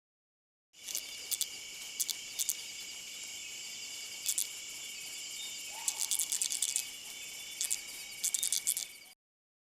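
Streaked tenrec stridulating with its back quills: short dry clicks, single or in quick clusters, over a steady high-pitched drone. The sound starts just under a second in and stops shortly before the end.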